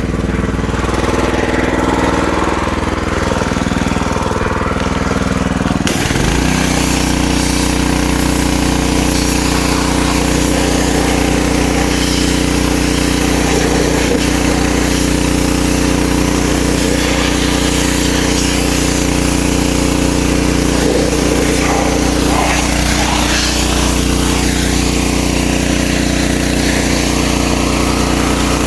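RYOBI 3300 PSI gas pressure washer's 212cc engine running steadily. About six seconds in, the engine note changes and a steady hiss of high-pressure water spray joins it and carries on.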